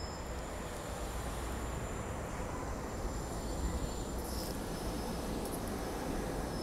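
SEPTA Regional Rail electric train rolling into the station on the far track, a steady low rumble with faint high-pitched squeals from the wheels.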